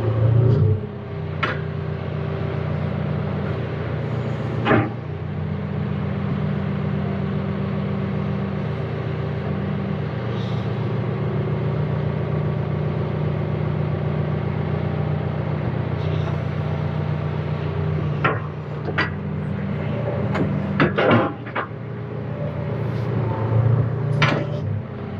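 John Deere 310K backhoe loader's diesel engine running steadily, with sharp knocks about a second and a half and five seconds in, and a cluster of them in the last several seconds.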